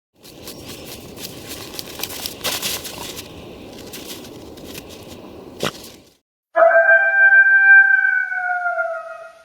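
A rough crackling noise with a sharp snap, then a single long wolf howl: one held, hollow tone that sags slightly in pitch as it fades.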